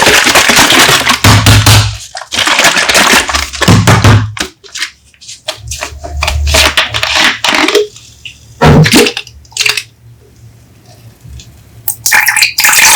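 Coca-Cola soda bottles being opened and poured. There are several loud stretches of hissing, pouring fizz, broken by sharp clicks and knocks, a brief burst with a thump about nine seconds in, and quieter crackling carbonation between the bursts.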